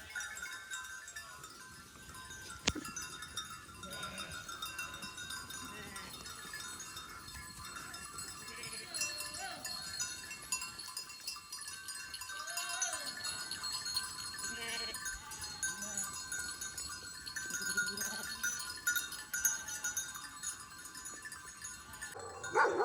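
A flock of sheep bleating, with scattered calls and one louder bleat near the end.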